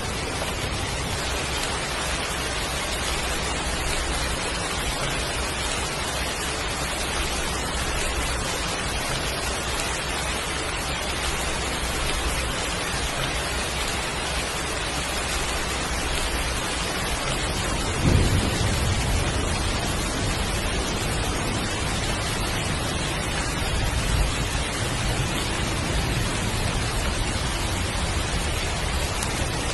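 Heavy rain falling steadily. About eighteen seconds in, a sudden low crack of thunder rumbles for a second or two, and a lesser rumble follows about six seconds later.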